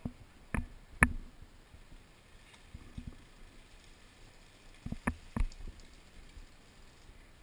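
A handful of sharp snaps or knocks, three in the first second and three more about five seconds in, the one about a second in the loudest.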